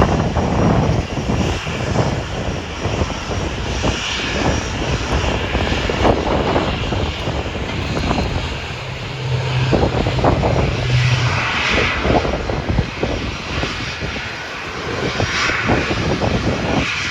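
Aircraft engines running, heard through heavy buffeting of strong wind on a phone microphone, with a steady low hum for a few seconds about halfway in and a higher engine whine that swells and fades several times.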